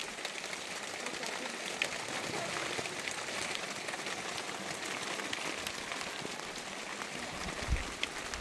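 Steady rain falling, an even hiss sprinkled with small ticks of individual drops, with a dull low thump near the end.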